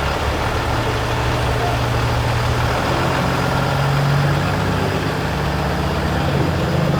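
Diesel engine of a Peterbilt semi truck running at low speed, a steady deep drone that rises slightly in pitch about three to four seconds in.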